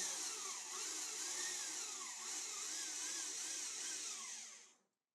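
Milling machine spindle running with the cutter fed down into a small 304 stainless steel part, a whine that wavers up and down in pitch under the cut. It stops near the end.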